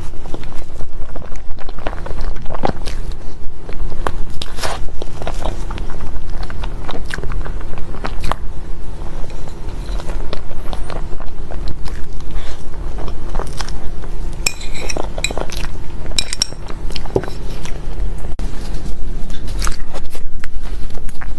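Close-miked eating of crepe cake: chewing with many small wet clicks of the mouth. Utensils clink against a plate a few times about two-thirds of the way through.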